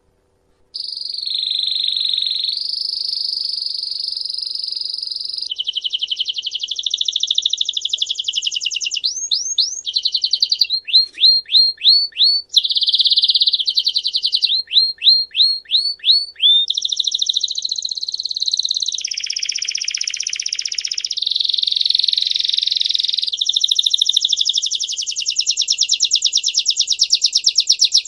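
A songbird singing a long, continuous song of fast trills and rolls and runs of repeated down-slurred notes, starting abruptly about a second in.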